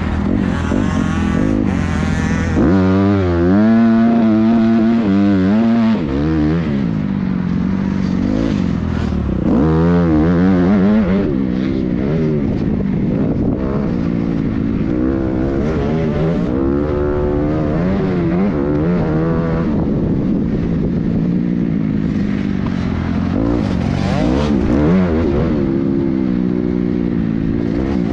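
Motocross dirt bikes on the track, their engines revving up and down through the gears, with more than one bike heard at once. The engines are loudest a few seconds in and again about ten seconds in.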